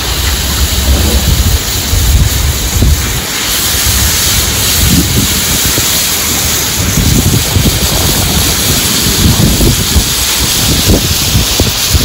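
Cubed steak sizzling in garlic butter on a hot flat-top griddle, the hiss growing louder about three and a half seconds in as more meat goes down. Wind buffets the microphone in low rumbles.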